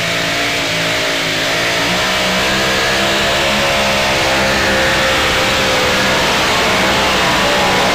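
Supercharged engine of a super modified two-wheel-drive pulling truck running flat out under load down the track, loud and steady, its pitch wavering slightly as it grows a little louder.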